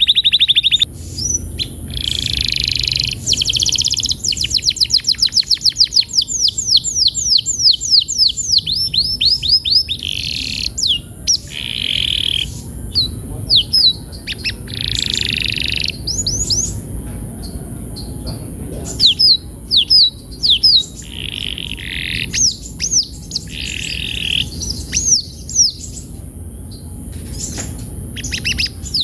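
Domestic canary singing a long, continuous song. It runs fast trills of repeated sweeping notes, about ten a second, broken by harsher buzzy phrases.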